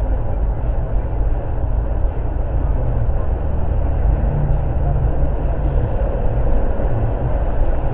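A moving car's steady engine and road rumble, low and even, with no impacts.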